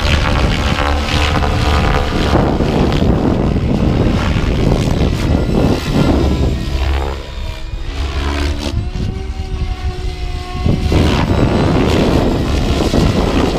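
SAB Kraken 700 electric RC helicopter in flight. Its rotor blades and motor whine rise and fall in pitch as it manoeuvres, with strong wind buffeting the microphone.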